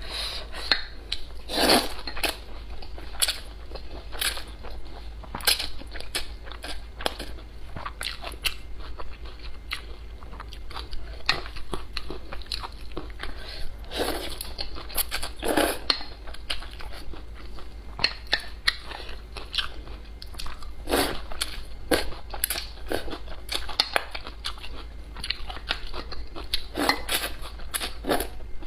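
Close-miked eating: irregular bites, crunches and wet chewing sounds, with frequent sharp clicks of food between the teeth.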